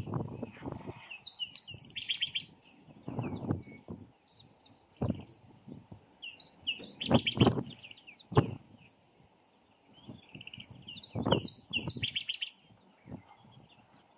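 Birds singing in several bursts of quick, high chirping notes, with short dull knocks and thuds at irregular intervals underneath.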